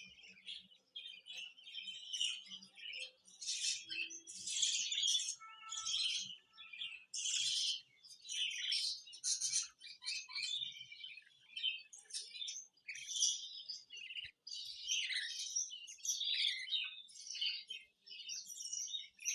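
Budgerigar chicks about three weeks old chirping: a dense, near-continuous run of short high chirps from several birds.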